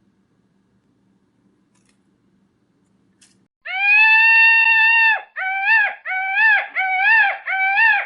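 High-pitched animal cries: one long, drawn-out cry about halfway through, then four short cries in a row, each rising and falling in pitch.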